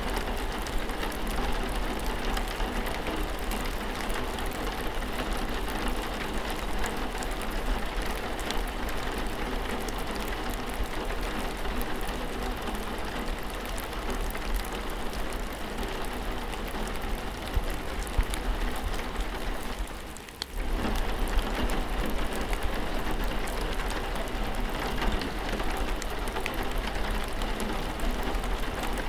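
Steady rainfall, an even hiss dotted with the ticks of individual drops striking a surface. The sound drops away for a moment about two-thirds of the way through, then resumes.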